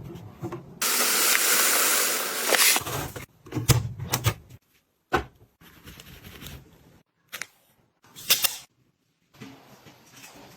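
Household items being handled: a loud hiss lasting about two seconds, then several separate sharp clicks and knocks with short silent gaps between them.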